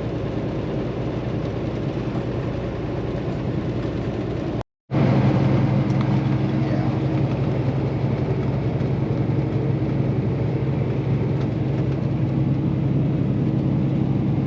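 Semi-truck's diesel engine running steadily, heard from inside the cab. About five seconds in the sound drops out for a moment, then comes back louder, with a steady low hum.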